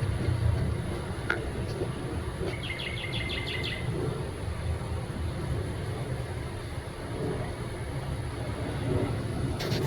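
A small bird gives a quick run of about seven short, high chirps lasting just over a second, with a couple of single chirps shortly before, over a steady low rumble.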